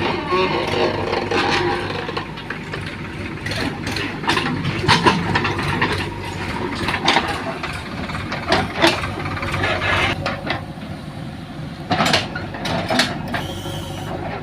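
Diesel engine of a JCB 3DX backhoe loader running steadily, with a series of sharp knocks and clanks, the loudest about five seconds in and about twelve seconds in.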